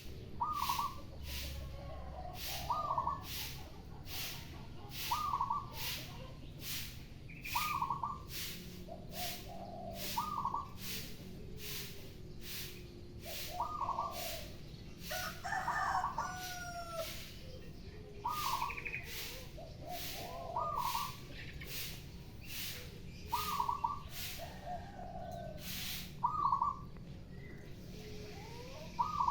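Zebra doves and spotted doves cooing back and forth, a call every couple of seconds, over a broom sweeping the ground in steady scratchy strokes about twice a second that stop near the end.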